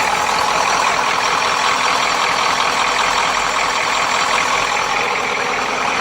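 Used vehicle engine, freshly installed, idling steadily at an even level on one of its first runs.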